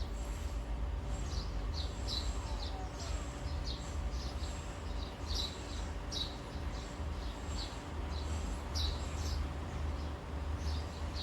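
Small birds chirping: many short, high chirps at irregular intervals, over a steady low rumble.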